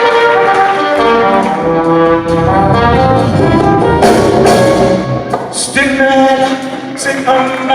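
Live band playing South African jazz, with a brass horn holding and stepping through sustained melodic notes over the accompaniment.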